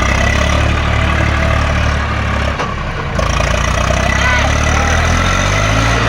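Tractor diesel engine running steadily at a low, even pitch. It dips briefly about two and a half seconds in, then picks up again.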